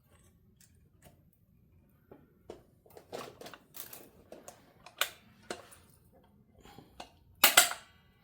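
Irregular clicks and knocks of a guitar neck being handled and pressed into the body's neck pocket over a shim. The loudest is a close double knock near the end.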